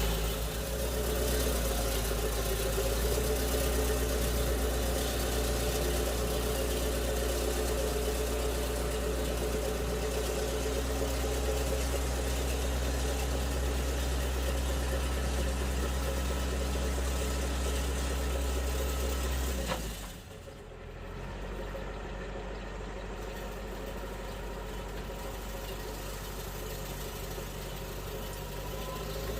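Tractor engine running steadily. About twenty seconds in, the sound drops suddenly and its deep low hum disappears, leaving a quieter engine sound.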